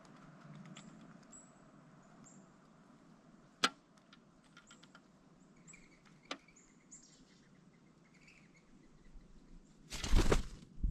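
Two sharp knocks a few seconds apart, typical of a pileated woodpecker's bill striking a suet feeder, over faint high chirps of small birds. Near the end comes a loud, brief rush, as of the woodpecker's wingbeats as it flies off.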